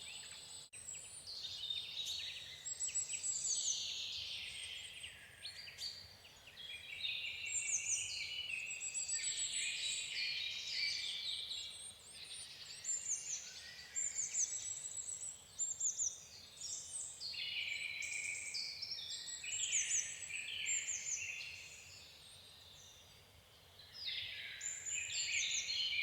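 Birdsong: several birds chirping and trilling in a dense chorus of quick high notes, thinning briefly near the end before picking up again.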